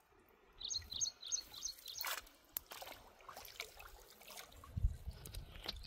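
A bird calling a quick run of six or seven high chirps, starting about half a second in, followed by a few short sharp clicks or splashes.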